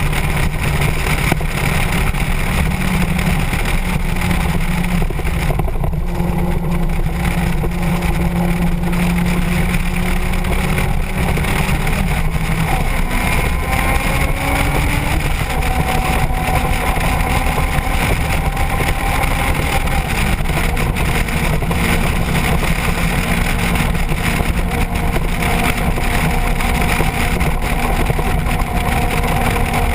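Motorcycle engine running under way with steady wind and road noise. The engine note changes pitch about halfway through, then holds steady again.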